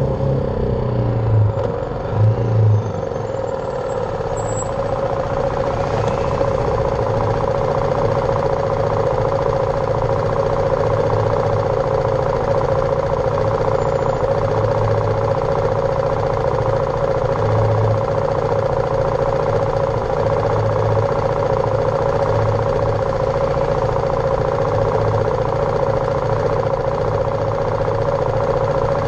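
BMW G310R's single-cylinder engine running under way on a ride, its pitch shifting over the first few seconds as the speed changes, then holding steady at cruise.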